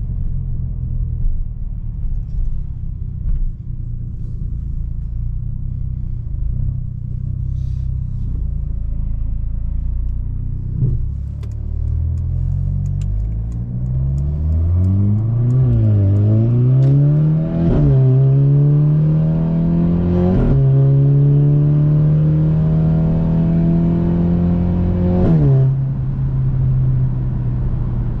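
Mercedes-AMG C43 (W206) turbocharged four-cylinder through an Fi exhaust with a catless downpipe. It rumbles low and steady at first. Then, from about ten seconds in, it pulls hard through the gears, its pitch climbing in steps, with a sharp crack at each upshift. After the last crack it falls back to a low drone.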